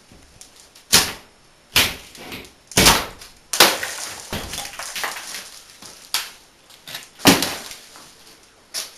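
Demolition of a fireplace: a series of sharp knocks and crashes, about seven loud ones, with scraping and rattling of broken material between them.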